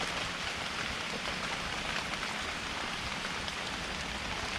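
Heavy rain falling steadily: a dense, even hiss scattered with small drop ticks.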